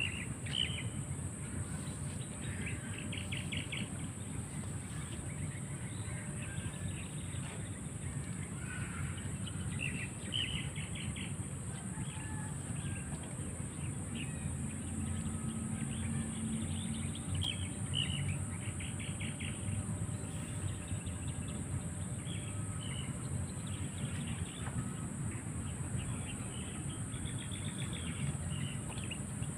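Small birds chirping in short, rapid trills every few seconds, over a steady high insect drone and a low rumble.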